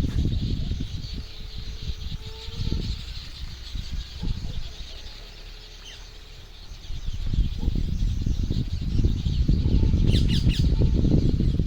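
Many small birds chirping together in a steady chorus, with a louder run of rapid chirps near the end. Under it a low, uneven rumble comes and goes, easing off midway and loudest in the second half.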